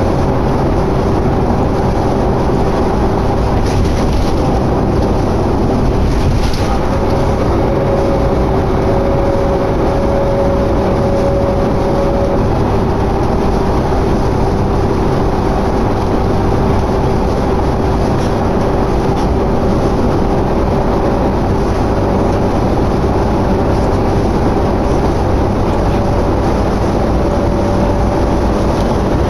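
Interior noise of a 2011 New Flyer D60LFR articulated diesel bus under way: a steady drone of engine and road noise with a constant whine over it.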